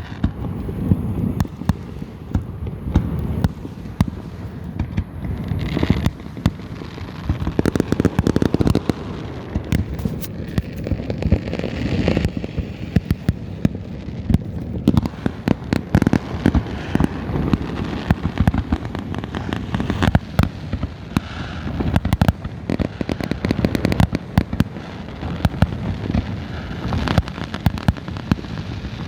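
Fireworks going off continuously: many overlapping bangs and crackles at irregular intervals.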